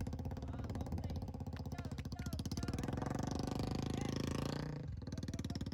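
Royal Enfield Bullet 350's single-cylinder engine running with rapid, even pulses. It revs up from about three seconds in, then drops back sharply near the end.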